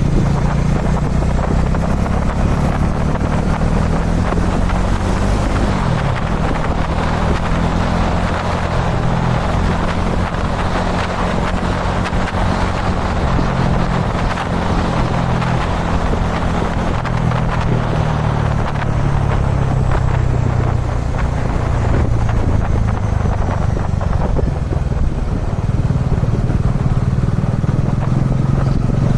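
Kawasaki Dominar 400 single-cylinder engine running steadily under way, heard from the rider's position, with wind and road rush over it that swells in the middle. The engine note shifts briefly about five seconds in.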